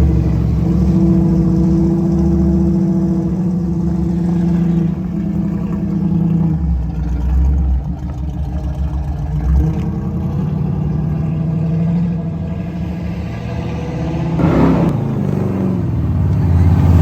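A car engine running close by, its pitch shifting up and down a few times, with a short rev about three-quarters of the way through.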